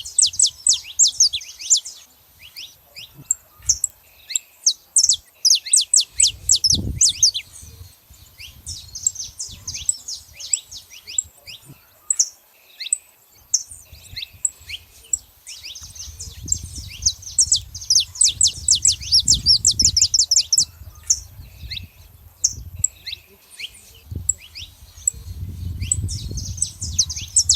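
Saffron finches singing and calling, dense overlapping runs of quick, high, falling notes in bursts. A low rumble comes in briefly about six seconds in and again through the second half.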